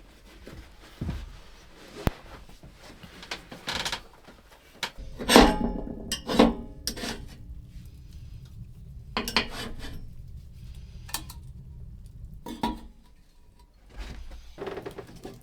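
Metal pots and utensils being handled, clinking and knocking together in a string of separate clatters. Several of them ring briefly, and the loudest comes about five seconds in.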